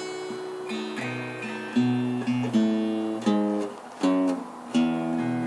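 Acoustic guitar playing alone in an instrumental break of a slow country song, a handful of strummed chords ringing out one after another.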